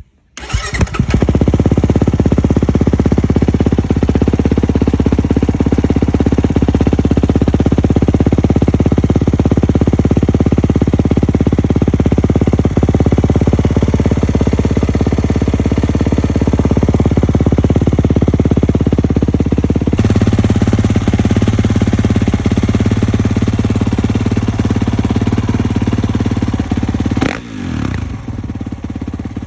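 Kawasaki KX450's single-cylinder four-stroke engine running through an FMF Titanium 4.1 muffler and Megabomb header, holding a steady idle, with its tone changing about twenty seconds in and a couple of quick throttle blips near the end.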